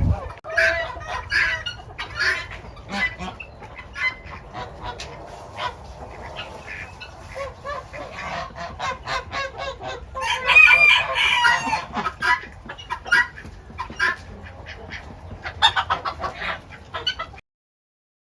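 A flock of chickens clucking, with a rooster crowing in one drawn-out call about ten seconds in. The sound stops abruptly a second before the end.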